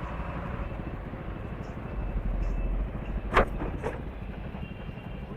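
Motorcycle running on the road, its engine rumble mixed with wind and road noise, with a sharp knock about three and a half seconds in and a fainter one just after.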